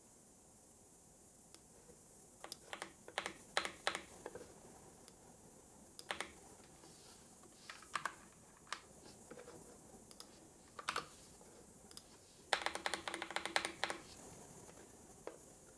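Typing on a computer keyboard in short bursts with scattered single keystrokes, and a quick flurry of keys about two-thirds of the way through.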